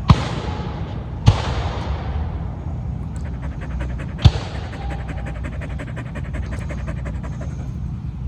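Blue heeler dog panting, with three sharp knocks: one at the start, one about a second in and one about four seconds in.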